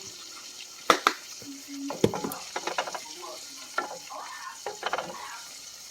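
Onions and garlic sizzling in hot olive oil in a pan, with sharp knocks about a second in and clattering scrapes of a utensil stirring them around the pan.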